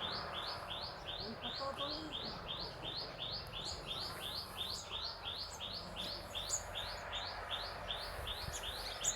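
A bird repeating one short, high, downward-sliding note about three times a second in a steady, unbroken series, with other birds chirping faintly.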